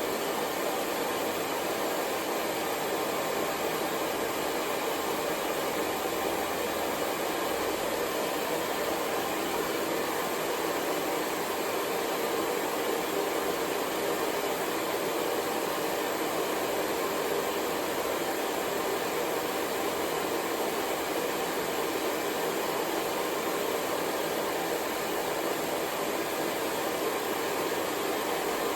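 Hair dryer running steadily: a continuous, even noise with no change in pitch or level.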